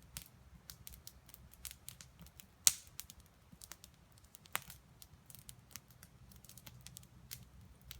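Wood campfire crackling with irregular sharp pops, one much louder pop a little under three seconds in and another a little after four and a half seconds.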